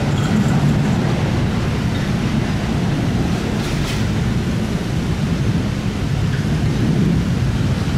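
Passenger train rolling slowly away along the track: a steady, low rumble.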